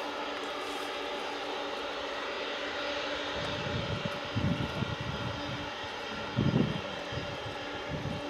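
Boeing 747-400 jet engines at taxi power, with a steady whine of several held tones over a hiss. Low buffeting rumbles come in about halfway through and again near the end.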